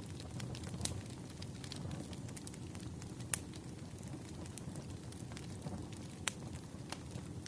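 Campfire burning: a steady low rumble of flames with sharp wood crackles and pops scattered through, the loudest pops about three seconds in and just past six seconds.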